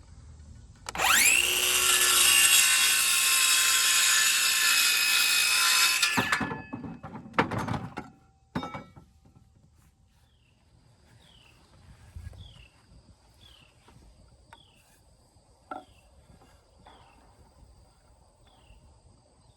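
Electric power saw spinning up about a second in and cutting through a 2x4 for about five seconds, then winding down. Two or three knocks of wood follow, then faint insect chirping.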